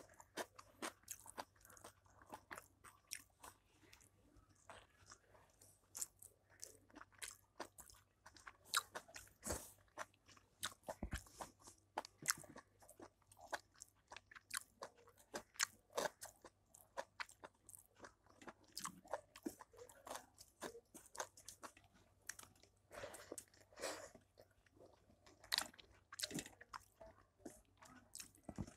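Close-miked chewing of a mouthful of rice and curry eaten by hand: irregular sharp mouth clicks, smacks and soft crunches, several a second, with fingers mixing rice and dal on a steel thali.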